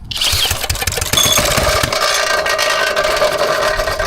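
Mini bike's small gas engine spun over with a cordless drill on the starter, then running steadily from about a second in with an uneven low pulsing.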